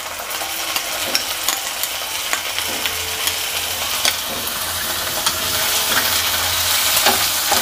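Sliced onions and ginger-garlic paste frying in hot oil in a kadai: a steady sizzle dotted with crackling pops, growing slightly louder. A wooden spatula stirs the mixture in the latter half.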